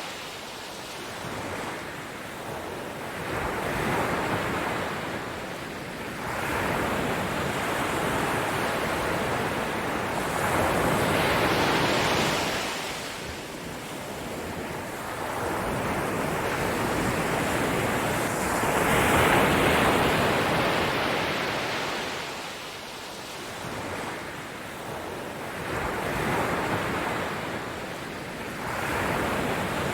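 Waves washing on a shore, a steady hiss of surf that swells and falls back every several seconds.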